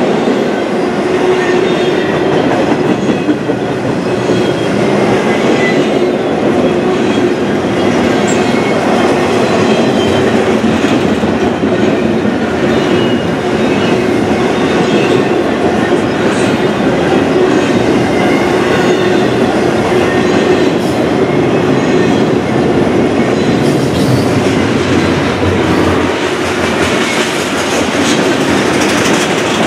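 Intermodal freight cars, double-stack container well cars and flatcars, rolling steadily past at close range: a continuous loud rumble and clatter of steel wheels on the rail.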